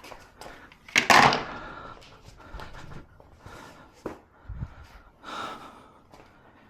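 A loud clatter about a second in, then scattered clicks, knocks and a dull thump: hand work on car interior parts and trim.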